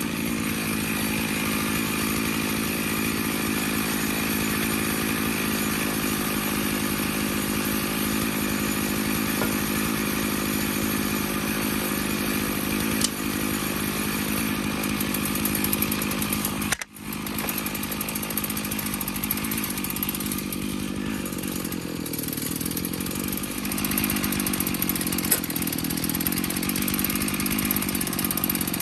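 Stihl MS461 two-stroke chainsaw on an Alaskan chainsaw mill, running steadily under load as it rips a cedar log into slabs. Its pitch sags briefly about three-quarters of the way through. A little past halfway the sound cuts out for an instant.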